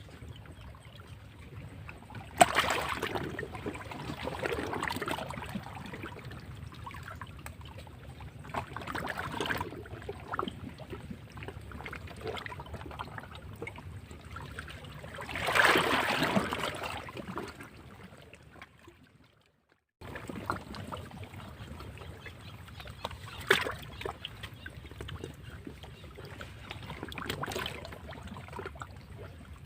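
Sea waves breaking and washing against rocks, in repeated surges of splashing water, the largest about halfway through. The sound fades to a brief near silence about two-thirds of the way in, then cuts back in abruptly.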